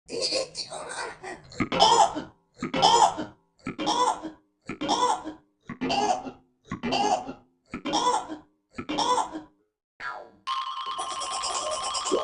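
A short voice-like sound effect repeated in strict time, about once a second and eight times over, as in an edited remix. About ten and a half seconds in, a steady layered electronic tone takes over.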